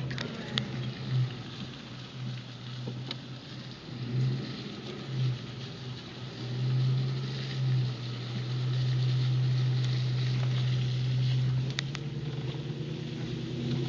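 Car driving: a steady low engine drone over road noise, swelling at moments and steadiest from about eight to eleven and a half seconds in.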